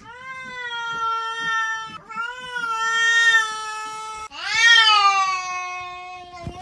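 A cat meowing three long, drawn-out times in a row, each call about two seconds; the last rises in pitch and then falls away.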